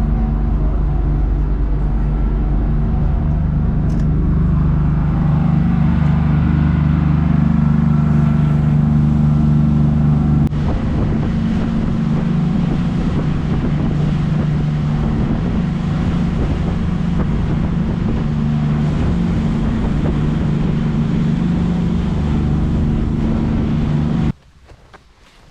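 Loud, steady engine drone with a low hum. It cuts off abruptly near the end.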